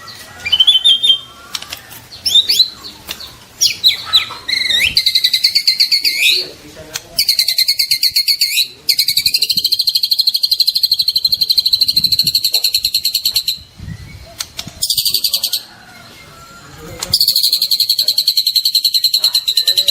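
White-rumped shama singing: a few varied whistles and pitch slides, then long runs of rapid, evenly repeated chattering notes, the rattling 'trotol' delivery, each run lasting several seconds with short breaks between.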